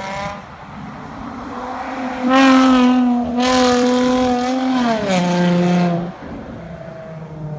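Car engine running hard under acceleration, held at a high steady pitch, then dropping in pitch about five seconds in and cutting off, with a lower engine drone after it.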